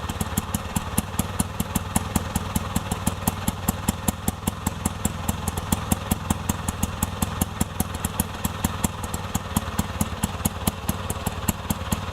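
Indian auto rickshaw engine running steadily at an even, unchanging speed, with a regular putter of about six to seven beats a second.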